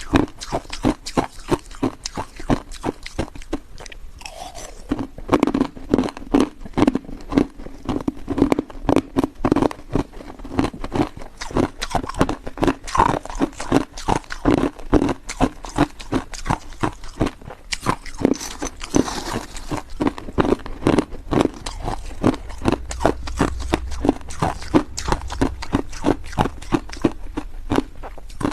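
Hard ice being bitten and chewed close to the microphone: rapid crunches follow one another without pause.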